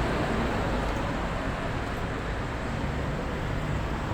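Steady road traffic noise, an even rumble and hiss with no distinct events.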